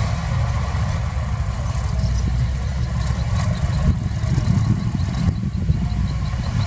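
Heavy diesel engine of earthmoving machinery running steadily, with a faint, quick, even ticking high up from about three seconds in.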